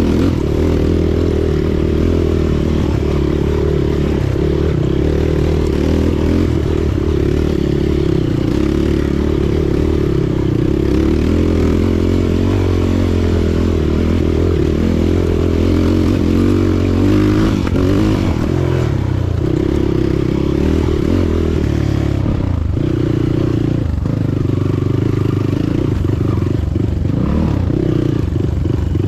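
Motorcycle engine running on the move, its note shifting up and down a few times in the second half, with rattling and wind noise over it.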